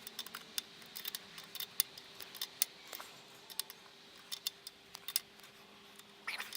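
Light metallic clicks and clinks of hand tools on a bolt being tightened, irregular, several a second, over a faint steady hum.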